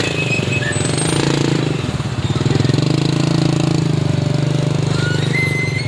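A heavy vehicle's engine running steadily with a fast, even pulse. A high whistle tone starts near the end.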